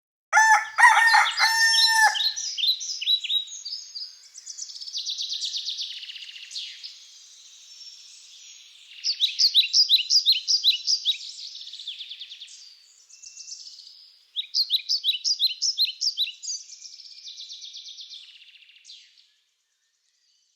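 A rooster crows once, then small songbirds sing bursts of rapid, high-pitched trills that stop a little before the end.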